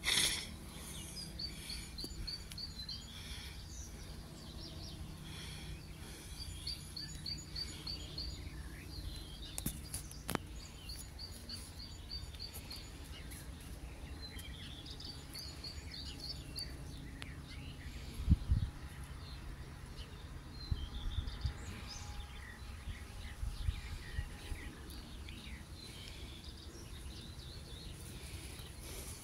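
Songbirds singing, with repeated runs of quick high chirps, over a low steady outdoor rumble. A few dull low bumps come through, the loudest about 18 seconds in.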